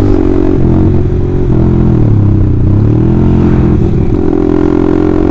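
Honda CBR150R's single-cylinder engine running through an Austin Racing aftermarket racing exhaust while riding. The revs drop off about two seconds in and climb back up about a second later, then hold steady.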